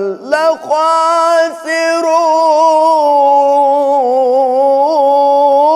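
Male Quran reciter chanting in the melodic tajwid style. About half a second in he begins one long held note, stretching a vowel with gentle wavering and small ornamental turns.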